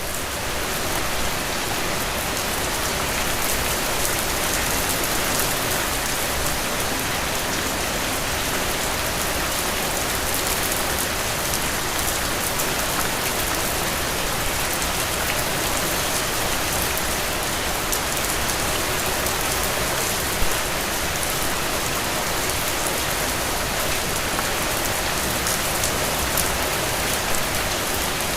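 Steady heavy rain falling on a surface, a dense even hiss with fine drop patter and one slightly louder drip about twenty seconds in.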